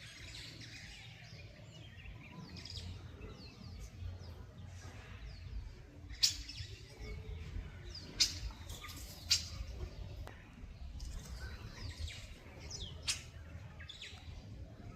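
A flock of birds chirping and calling continuously, many short, quick downward-sliding notes overlapping, as they feed on swarming termites. A few short, sharp sounds stand out louder than the rest.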